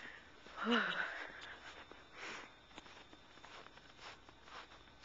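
Footsteps crunching slowly through deep, wet snow, a few faint irregular steps, with a brief vocal sound from the walker about a second in.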